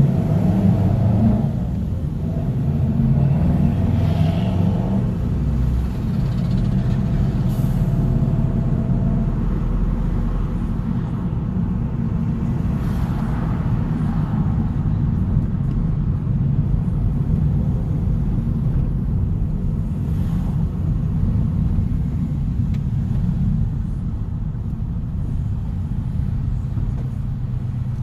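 A car driving at steady speed: a continuous low rumble of engine, exhaust and road noise, with a faint engine tone over it for the first nine seconds or so.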